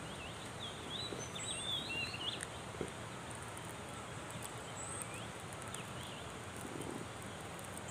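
Birds chirping over a steady rural background hiss, with a cluster of short, quick chirps in the first two and a half seconds and a few more around five to six seconds in.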